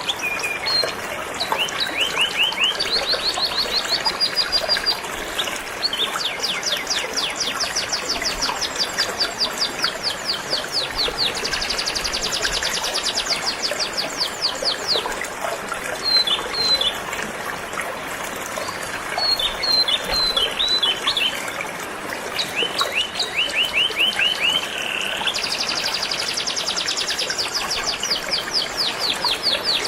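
Domestic canary singing a long, continuous song of fast trills and runs of quickly repeated notes, over the steady rush of flowing river water.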